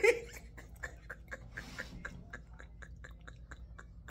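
A toddler chewing and smacking his lips on agbalumo (African star apple) fruit: a string of small wet clicks, about four a second. The tail of a woman's laugh ends just at the start.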